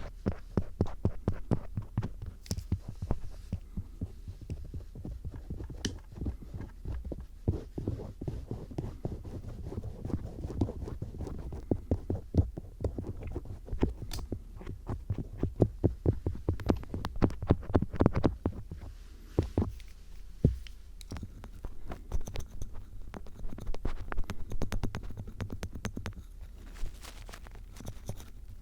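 Tip of a Phillips screwdriver used as an ear pick, scraping and poking at a microphone for ear-cleaning ASMR. It makes a dense run of close, crackly scratches and clicks over a low rumble.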